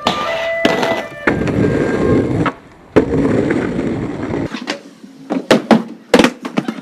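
Skateboard wheels rolling on hard ground, then a series of sharp board pops and slaps near the end.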